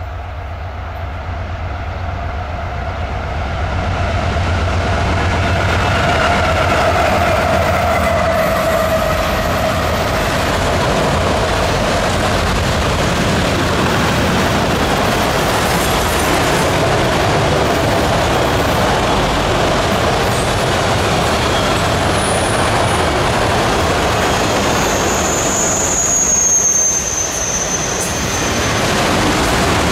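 Freight train passing close by: a CSX diesel locomotive's engine hum grows louder as it approaches and goes by with a falling tone, then the auto rack cars roll past with a steady, loud rolling rumble of wheels on rail. A brief high squeal, the wheels squealing on the rails, comes near the end.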